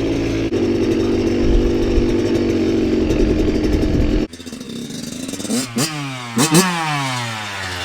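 Kawasaki KX112 two-stroke dirt bike engine running at a steady low speed, then it cuts off abruptly about four seconds in. Near the middle come two quick revs, each rising and falling, and after them the revs fall away slowly.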